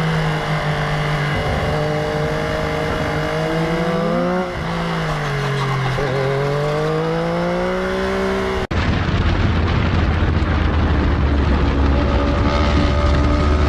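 Motorcycle engine running under way, its pitch rising and falling with the throttle. About two-thirds of the way in it cuts off abruptly to a steady low drone with a rushing noise.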